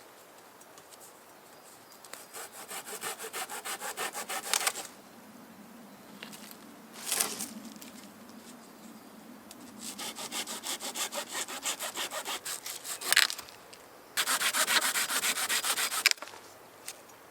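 A hand saw cutting through a wooden branch in three bouts of quick, even back-and-forth strokes. The last bout starts abruptly and is the loudest, and there are two short rasps between the bouts.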